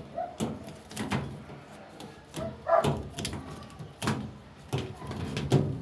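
A dog barking a few short times, among sharp knocks and clatter.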